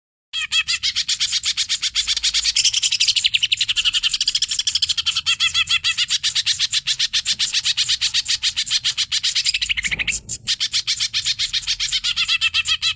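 Greater green leafbird (cucak ijo) singing energetically: a fast, unbroken stream of many chattering notes a second. There is a brief drop about ten seconds in.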